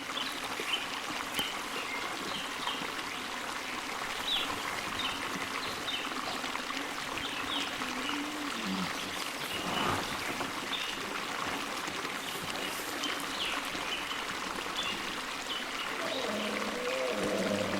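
Running water, like a stream, with a steady rushing and short high chirps scattered through it; a low sound comes in near the end.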